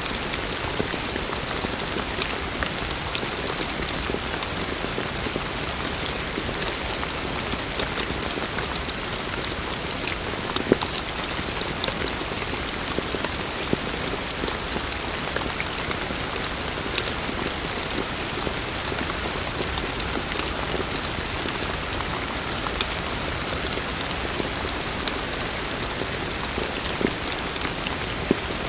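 Heavy rain falling steadily, a dense even hiss dotted with sharper individual drop hits. One louder drop strike comes about eleven seconds in and another near the end.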